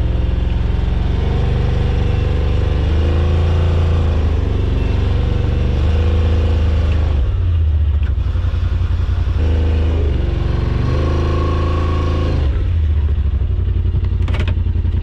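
Side-by-side UTV engine revving up and down in two long pushes, with steadier running between, as it crawls in low range with the differential locked over rough ground where a wheel has lost contact.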